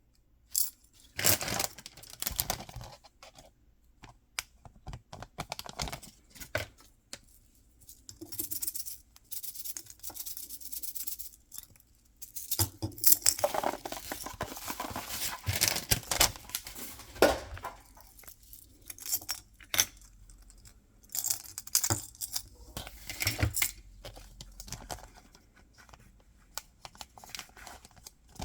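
Hands tearing open and crinkling packaging in irregular bursts of rustling, with small clicks and taps in between.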